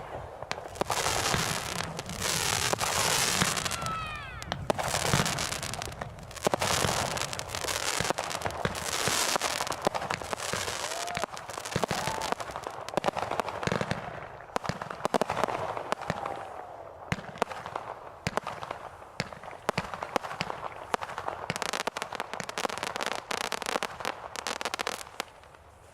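Consumer aerial fireworks going off in quick succession: many sharp bangs of bursting shells with crackling between them, a continuous barrage that eases slightly near the end.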